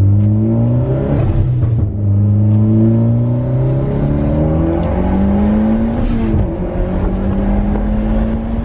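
Nissan 350Z's V6 engine pulling hard, its pitch climbing, then dropping at an upshift about two seconds in. It climbs again through the next gear to a second upshift about six seconds in, then holds a steady cruise.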